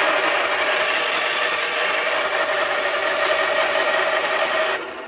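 Electric starter cranking a Kohler Magnum 14 engine with its spark plug removed, turning it over freely: a steady, even whirring whine that cuts off suddenly near the end.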